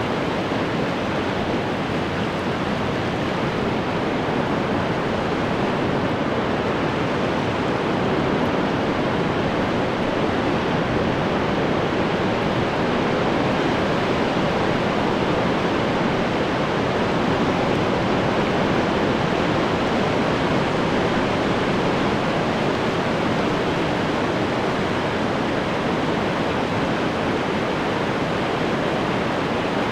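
Ocean waves breaking and washing on the shore in a steady, continuous rush of surf, with no distinct single breakers standing out.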